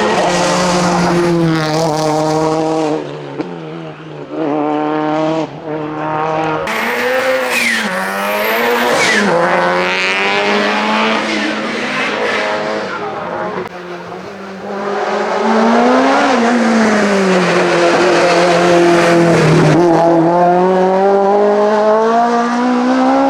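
Racing car engine driven hard up a hillclimb course, revving up and dropping back repeatedly through gear changes and lifts for corners. Tyres squeal briefly about seven to nine seconds in.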